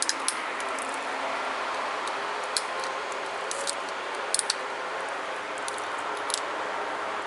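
Flint knapping: sharp clicks of small flakes snapping off a tiger chert point as it is shaped, a few at a time at irregular intervals, over a steady hiss.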